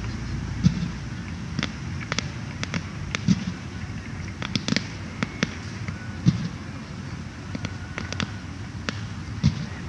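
Fireworks bursting: irregular sharp bangs and crackles at uneven intervals over a steady low background noise, the loudest bangs about a second in, near six seconds and near the end.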